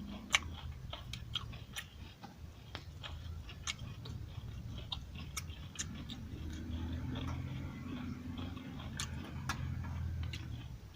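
A person chewing mutton curry and rice with the mouth, with irregular wet smacks and clicks.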